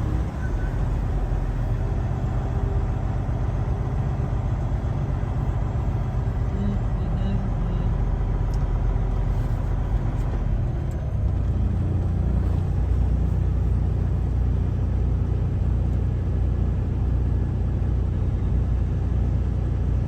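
Semi truck's diesel engine running with a steady low rumble, growing louder a little past halfway through.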